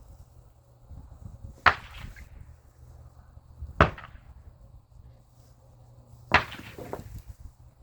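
Three sharp knocks about two seconds apart, each with a short ring after it: a hand tool striking a scrap part, trying to break it open or knock plated pieces off.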